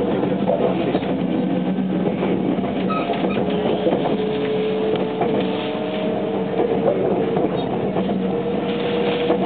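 Running noise heard inside a JR West 287 series electric limited express train at speed: a steady rumble of the wheels on the rails, with a steady whine that rises slightly in pitch partway through.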